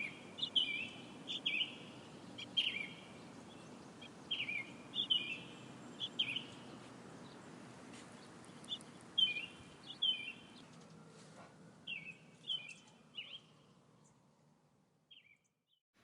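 A bird calling repeatedly: short high chirps in clusters of two or three, every second or two, stopping shortly before the end, over a faint low steady background hum.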